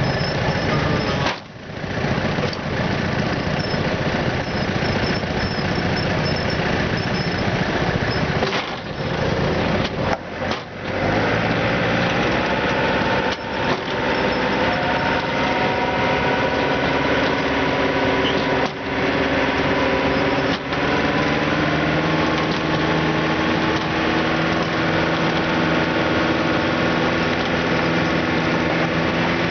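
Small garden tractor engine running hard at high throttle, pulling the weight sled, with a few brief dips in level in the first third and its pitch slowly climbing through the second half.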